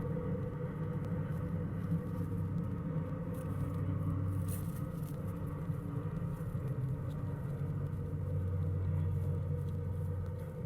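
Steady low mechanical hum and rumble, swelling twice, with a few faint ticks about halfway through.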